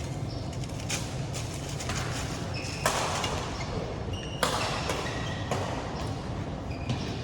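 Badminton rally: a string of sharp racket hits on the shuttlecock, one every one to two seconds, some with a brief ringing ping, over a steady low hum.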